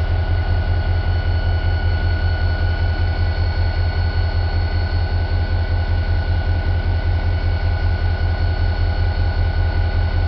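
Diesel locomotive engine idling steadily: a heavy, low throb pulsing about four times a second, with a faint steady whine above it.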